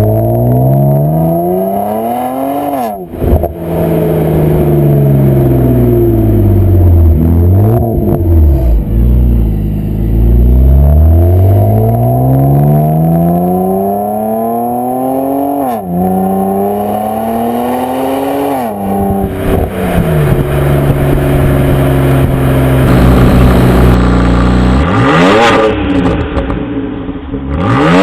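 BMW 135i turbocharged straight-six accelerating hard through the gears. The engine note climbs steadily, then drops sharply at each upshift, several times in a row, with further quick revs near the end.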